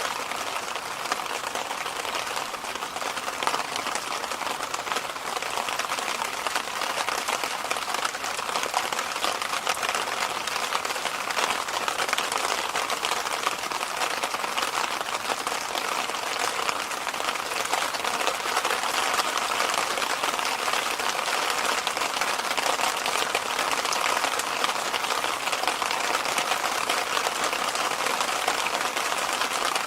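Electric fan running steadily: an even, unbroken rushing noise with little low rumble.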